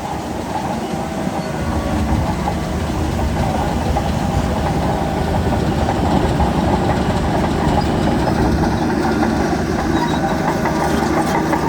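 Heavy construction machine's diesel engine running steadily, growing louder about a second and a half in, with some clattering near the end.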